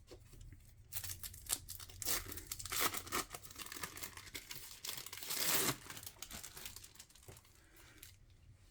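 Plastic wrapping crinkling and tearing in irregular bursts as a cheese slice is unwrapped, loudest near the middle.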